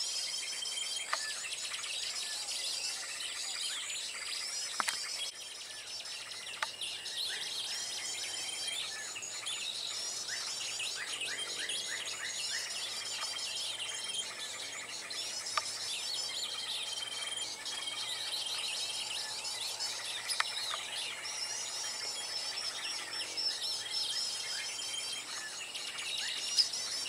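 Small songbirds chirping and trilling rapidly and continuously, with short level whistles repeating over and over, over a steady high insect drone. A few sharp ticks stand out now and then.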